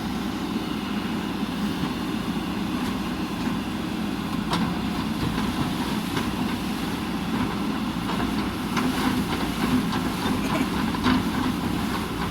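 JCB backhoe loader's diesel engine running steadily, with a few short metallic knocks toward the middle and near the end.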